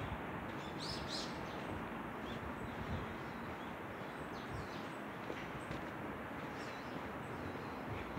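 Small birds giving several short, high chirps over a steady background hiss of outdoor noise.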